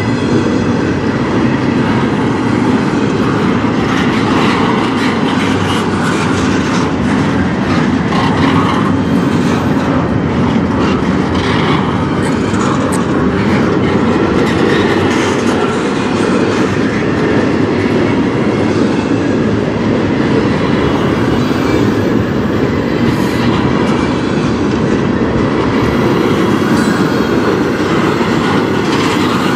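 Double-stack intermodal container well cars rolling past close by: a loud, steady rumble of steel wheels on rail.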